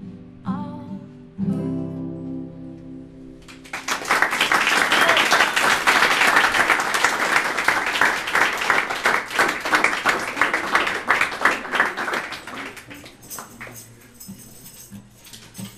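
Acoustic guitar's final strummed chords ring out, then a small audience applauds for about nine seconds, the clapping gradually dying down. A tambourine jingles faintly near the end.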